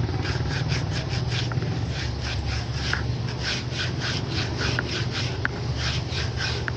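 Rhythmic scraping strokes, about three to four a second, as a shoe's rubber sole is worked by hand, over a steady low hum.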